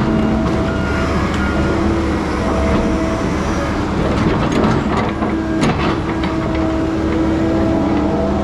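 Heavy diesel logging machine running, its engine and hydraulics holding steady tones that step up and down in pitch, with scattered sharp metal knocks.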